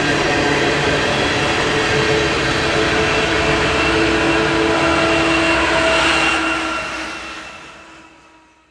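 Freight train running, a steady rumble with several steady tones over it, fading out over the last two seconds.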